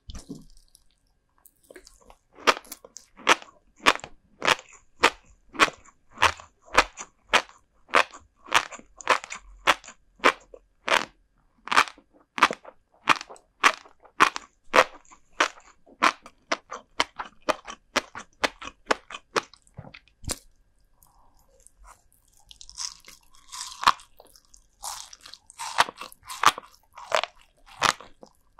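Close-miked chewing of crunchy salted herring roe (kazunoko): crisp, even crunches about two a second. About two-thirds through the chewing pauses briefly, then a less regular run of crunching follows.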